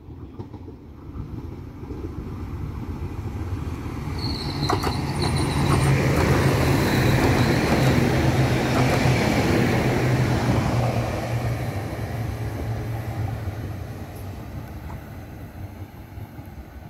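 A train passing on the line, growing louder as it approaches, loudest in the middle with a steady low hum, then fading as it moves away. A brief high squeal and a few clicks come a few seconds in.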